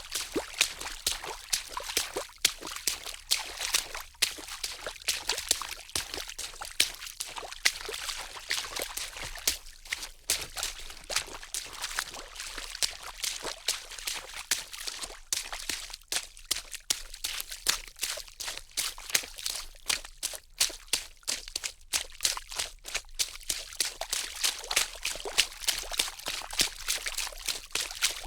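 Water draining from a water heater's drain valve, pouring and splattering in an uneven, spluttering stream.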